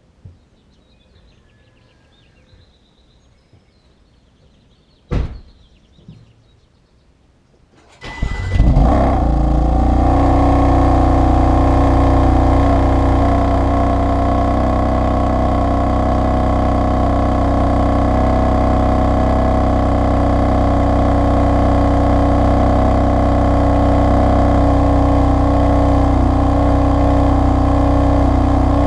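A sharp click about five seconds in, then a BMW M4's twin-turbo inline-six cranks and fires on a cold start about eight seconds in, flares briefly and settles into a steady idle.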